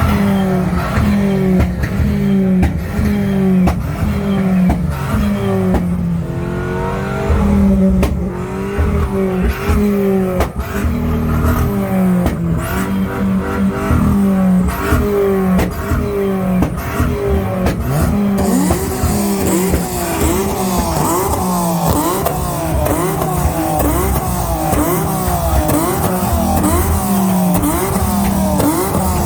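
Car engines revved hard over and over, their pitch rising and falling in quick repeated blips, with several engines overlapping. A steady hiss joins about 18 seconds in.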